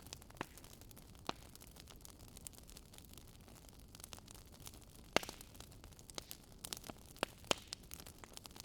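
Wood fire crackling over a faint steady hiss, with several sharp pops, the loudest about five seconds in and two more close together near the end.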